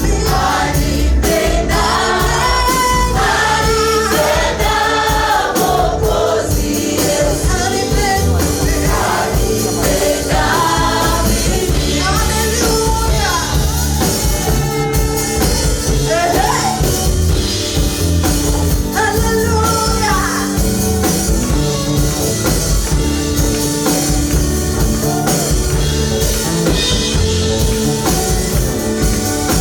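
A choir singing gospel praise music over a steady low band accompaniment with a beat.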